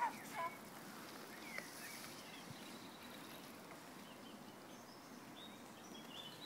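Faint outdoor background noise, with a short sharp call right at the start and small birds chirping in short high notes from about five and a half seconds in.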